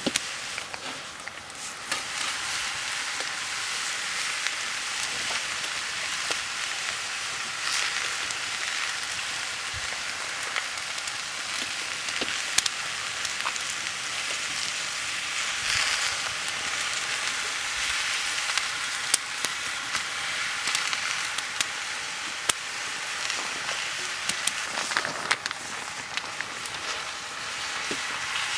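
Food frying and sizzling, a steady hiss with scattered crackles and pops.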